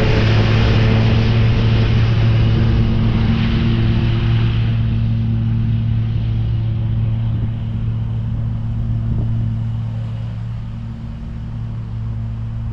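Lawn mower engine running steadily at a constant pitch while mowing and mulching leaves, with a rushing hiss over it that dies away about five seconds in.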